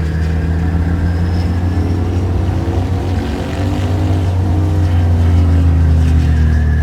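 Ducati 750 SS motorcycle engine running steadily at speed with a deep, even drone; its pitch wavers slightly midway.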